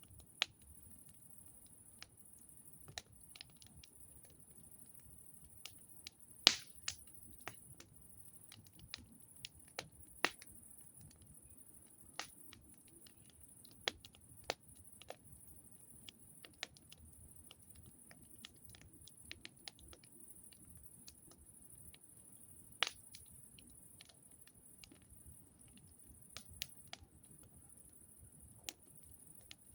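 Wood campfire crackling: irregular sharp snaps and pops from the burning wood, one louder snap about six seconds in.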